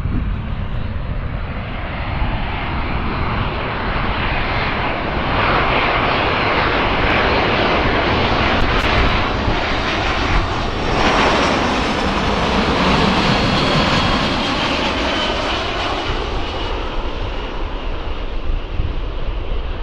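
Boeing C-17 Globemaster III's four turbofan engines heard as the jet passes. The noise builds to its loudest a little past halfway, with a faint high whine near the peak, then eases off.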